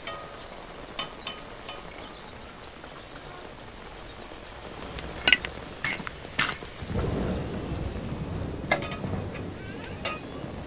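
Steady rain with a low roll of thunder that swells about seven seconds in and fades. Over it come several sharp metallic clinks, a metal spatula against an enamel plate, the loudest a little past halfway.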